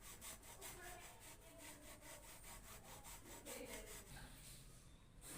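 Faint rhythmic scraping, about four to five strokes a second, that stops about four seconds in.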